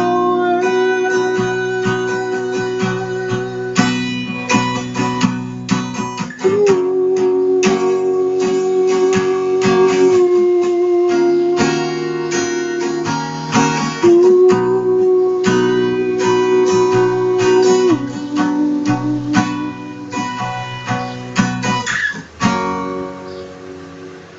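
Acoustic guitar strummed in a steady rhythm, with long held melody notes over it. The playing dies away about 22 seconds in as the song ends.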